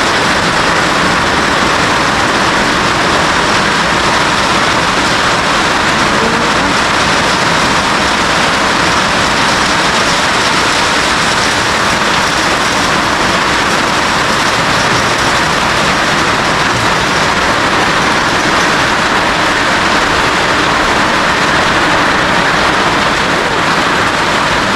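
Heavy rain falling on a roof: a loud, steady rush of noise that keeps up without a break.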